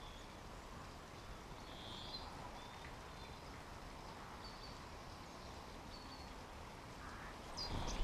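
A few short, faint high bird chirps over a steady background hiss, with a brief louder rustle and chirping just before the end.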